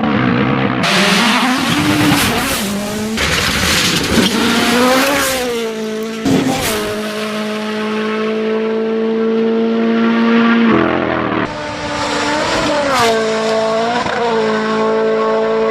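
Modified car engines revving hard, their pitch rising and falling, held high for a few seconds in the middle, and changing abruptly several times.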